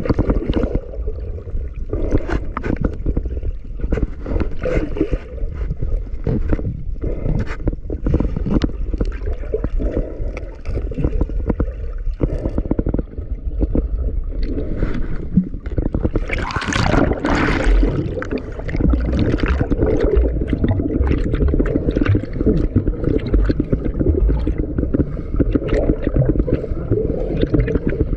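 Sea water sloshing and gurgling around a diver's camera, with steady pops and bubbling throughout. A louder rush of bubbles comes about two-thirds of the way through.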